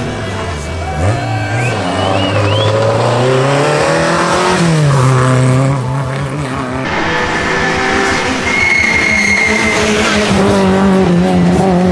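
Rally car engine at full attack on a stage, its pitch climbing and dropping again and again through gear changes and lifts. A brief high tyre squeal comes about two-thirds of the way through.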